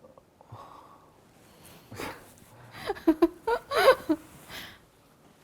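A person laughing softly: short breathy chuckles that grow louder over a couple of seconds, with a breath at the start.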